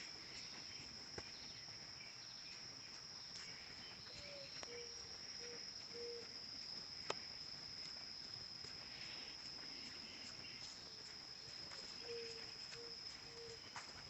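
Insects trilling, one steady high whine throughout. Twice a low call of three or four short notes sounds over it, and there are a few sharp clicks, the loudest about seven seconds in.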